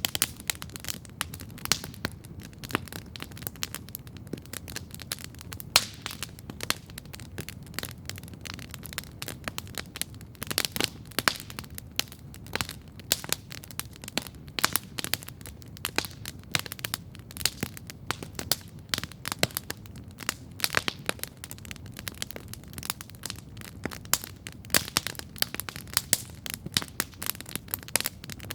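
Wood campfire crackling steadily, with irregular sharp pops and snaps over a low steady rumble of burning.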